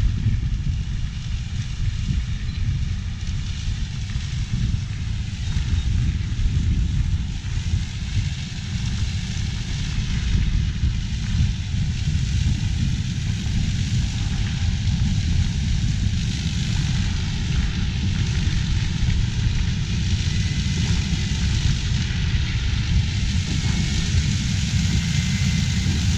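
Combine harvester working in standing corn: a steady low rumble with a hiss above it, going on without a break.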